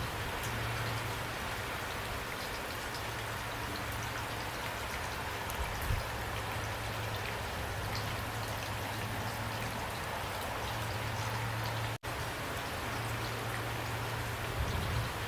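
Steady rain falling, with individual raindrops ticking on a surface over a low steady hum. About twelve seconds in the sound cuts out for a split second, then resumes.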